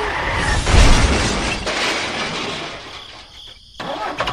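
A loud crash: a noisy rush that peaks about a second in and fades away over the next two seconds.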